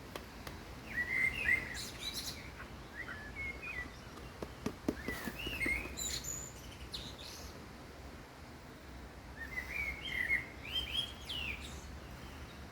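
Small birds chirping and singing in short, high phrases that come in several bursts, over a steady low background rumble.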